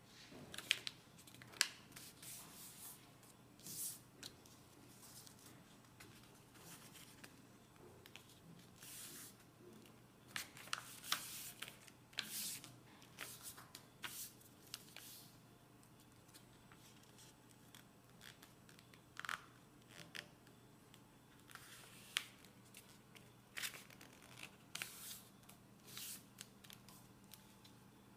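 A sheet of paper being worked by hand: irregular crisp rustles and sharp snaps, some in quick clusters, with short pauses between them.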